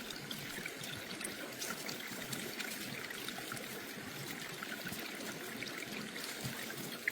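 Water trickling steadily, with faint scattered ticks.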